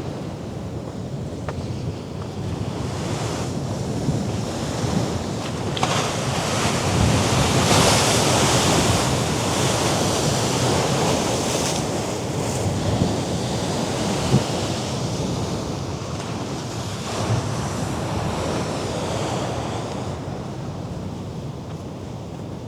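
Mediterranean sea waves surging against the rocky cliffs below, with wind buffeting the microphone. The wash builds to its loudest about eight seconds in, then slowly eases.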